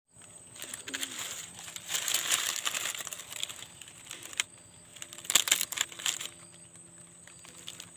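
Rustling and crinkling with scattered clicks, loudest for a couple of seconds after the start and again about five seconds in, over a faint steady high whine.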